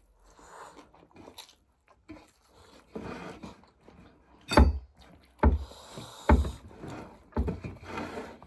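Four sharp knocks with a dull thump under them, about a second apart in the second half, among faint small handling noises during a meal.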